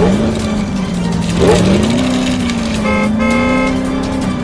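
Cartoon vehicle sound effects: a steady, slowly wavering engine drone with a horn honk about three seconds in, over background music.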